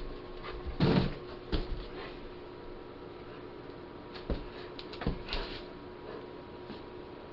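A dog's paws scrabbling and thumping on the floor as it lunges after a laser dot, a few separate knocks and scuffles, the loudest about a second in.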